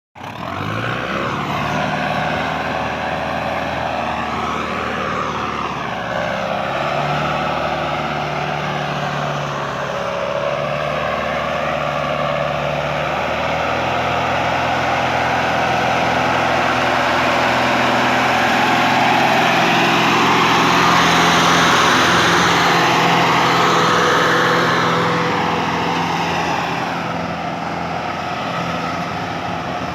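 Sonalika 750 tractor's diesel engine running hard while pulling a dumper trailer. It is steady, grows louder to a peak about two-thirds of the way through, then eases off near the end.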